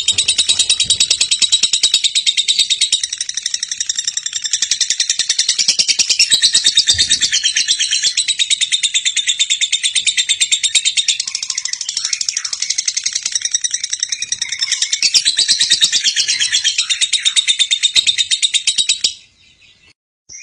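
Lovebird chattering in a long, unbroken run of rapid pulses: the drawn-out 'ngekek' song. It cuts off suddenly about a second before the end, then starts again.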